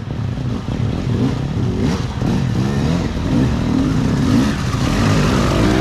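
Dirt bike engine revving up and down over and over, its pitch rising and falling as the throttle is worked.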